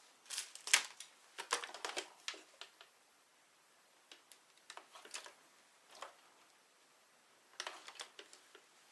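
Handling sounds of unboxing: clicks and rustles of plastic packaging and parts being handled, busiest in the first couple of seconds and again near the end, with scattered single ticks between.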